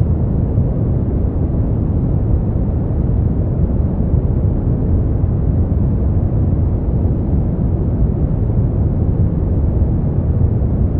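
Continuous generated sleep-aid noise, sold as white noise: a deep, even rushing sound with most of its weight in the bass and no high hiss, unchanging throughout.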